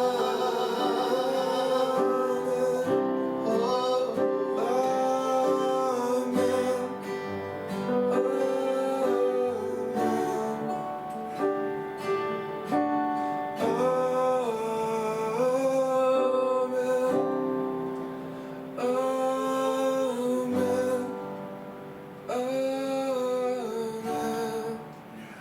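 Slow worship song: a singer holding long, gliding notes phrase by phrase over guitar accompaniment, with no clear words. The music dies away just before the end.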